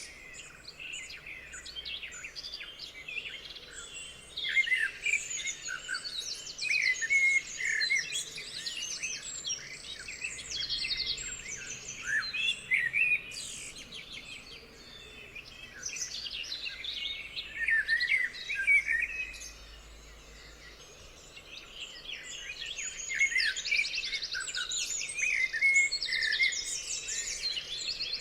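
A chorus of songbirds singing and calling over one another, with short chirps, quick rising and falling notes and fast trills. The calls thin out briefly about two-thirds of the way through.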